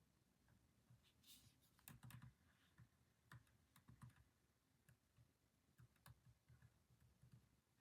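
Near silence with faint, irregular clicks and taps of someone working at a desk.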